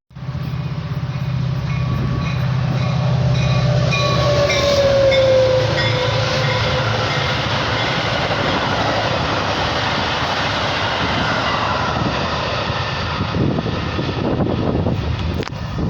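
A train passing close by: a low, steady engine hum at first, then a tone that slides down in pitch about five seconds in as the train goes by, followed by the steady rumble of the cars rolling past.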